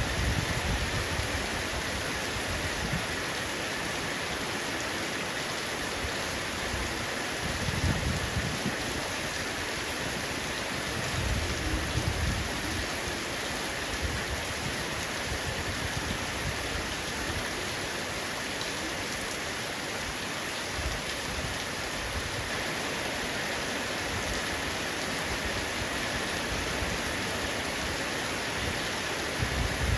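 Heavy rain falling steadily on a roof, a dense even hiss of drops. A few brief low rumbles swell up under it, around eight seconds in and again around twelve.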